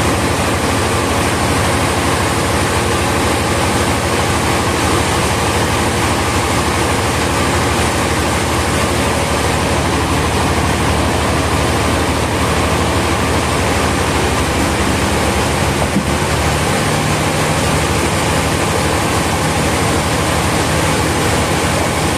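Heavy machinery running steadily with a low engine drone, its low hum changing pitch a little past the middle.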